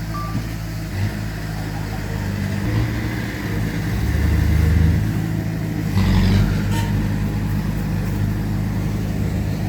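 Heavy diesel engines of earth-moving machinery running, the engine note growing louder about four seconds in and again around six seconds, where a rougher, noisier burst comes in. One short beep right at the start.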